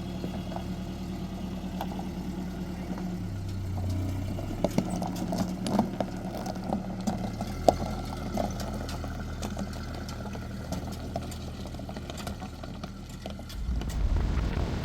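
An engine running with a steady hum whose pitch shifts a couple of times, with clattering and rattling over it. Near the end it gives way to a low rumble of wind on the microphone.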